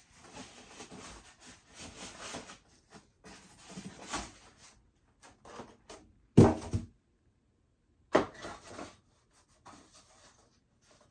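Unboxing packaging being handled, rustling in several spells, with one sharp knock about six and a half seconds in, the loudest sound.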